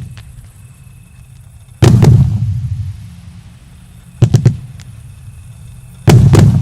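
Fan-shaped fireworks cake, the Joker Fireworks 'Generalsky' battery, firing loud bangs each followed by a rumbling echo: one about two seconds in, a quick cluster of two or three around the middle, and another near the end.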